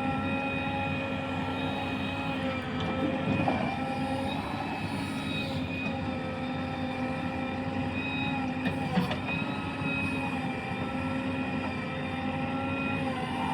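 Heavy diesel engine of a tractor or loader running steadily, its pitch sagging briefly now and then as if under load, with a couple of faint knocks.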